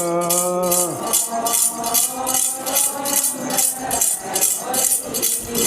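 Rhythmic metallic jingling, about three to four shakes a second, keeps the beat for a Ponung dance song. A group of voices holds a sung note that ends about a second in, and fainter singing follows.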